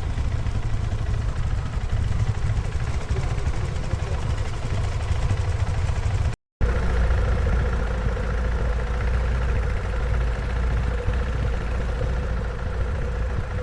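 A vehicle engine running steadily under heavy low rumble from wind and road. It is two joined stretches with an abrupt cut about six seconds in, and a steady hum rings out in the second part.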